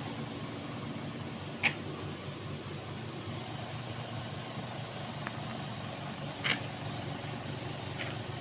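A steady low mechanical hum, with three brief sharp chirps from pet Quaker parrots, about two seconds in, six and a half seconds in, and near the end.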